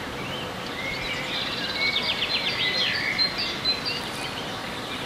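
Songbirds singing and chirping over steady outdoor background noise, with a fast trill about two to three seconds in.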